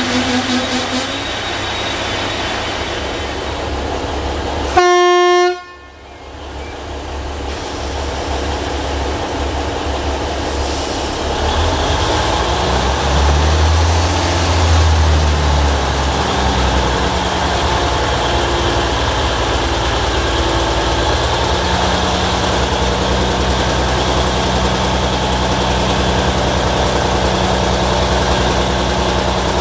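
A train horn gives one short blast about five seconds in. Then a TFC DH2 diesel railcar's engine and running gear, heard on board, swell into a heavy low hum as it pulls away, then run on steadily.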